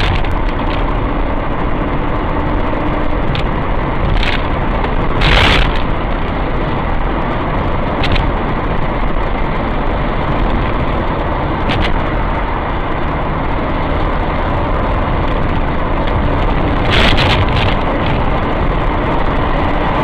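Road vehicle driving: steady engine and road noise, with two short hisses about five and seventeen seconds in and a few faint clicks.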